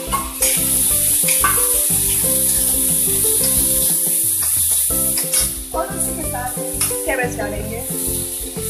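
Chopped onion frying in hot oil in a metal kadhai, sizzling steadily while a spoon stirs it, with a few clinks of the spoon against the pan.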